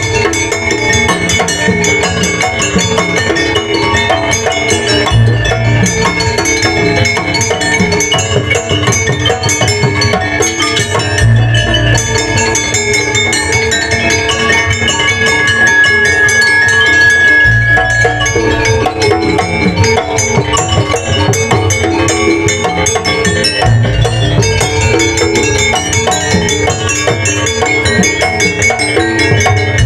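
Jaranan gamelan ensemble playing: quick drum and mallet-percussion strokes over a steady beat, with a deep low stroke about every six seconds.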